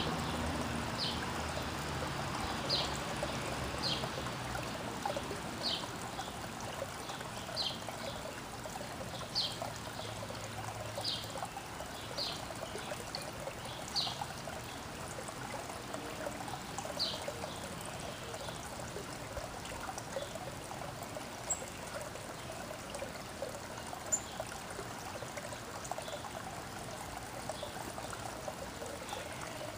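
Water trickling steadily, with a bird giving a short, high chip note about every second and a half for roughly the first half, then once more a few seconds later.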